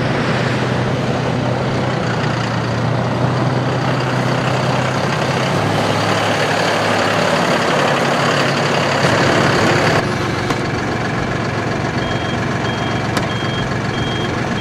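John Deere 5075E's three-cylinder turbo diesel running steadily. Its note drops slightly about five seconds in, and the noise eases at about ten seconds. Near the end a short high beep repeats about twice a second.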